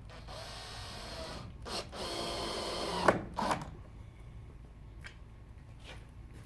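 Power drill running in two short bursts of about a second each, the second one ending in a sharp click.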